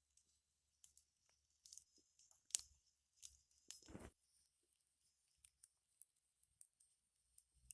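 A campfire crackling faintly, with irregular small pops and snaps; one sharper snap comes about two and a half seconds in and a fuller crackle about four seconds in.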